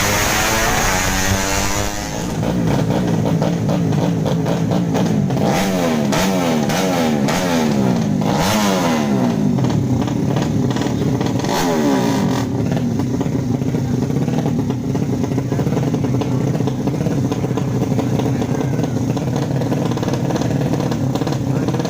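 155 cc drag-race motorcycle engines revving hard, their pitch sweeping up and down several times before settling into a steadier run.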